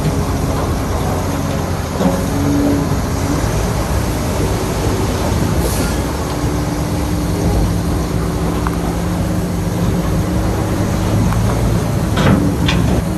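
Shantui bulldozer's diesel engine running steadily under work, with metal clatter from the machine. Two sharp clanks come near the end.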